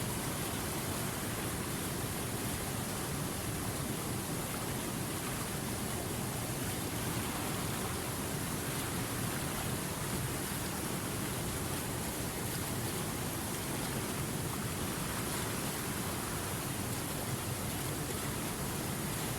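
River water rushing steadily over rocks, an even, unbroken hiss with no separate splashes.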